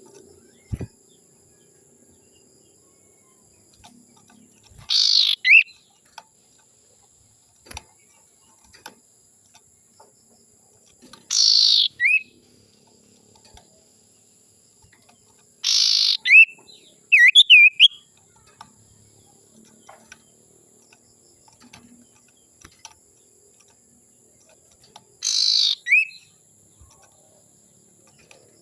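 Common iora (cipoh) giving its harsh 'sirtu' call: four rasping, downward-sweeping calls several seconds apart, each ending in a short whistled note, the third followed by a quick run of whistled notes.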